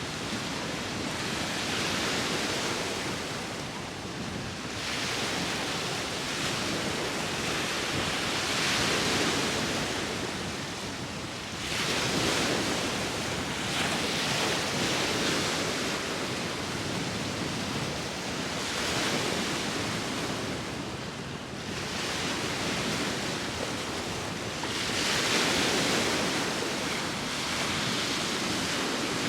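Sea waves breaking and washing onto the shore, the surf swelling and falling away every few seconds. The loudest surge comes near the end.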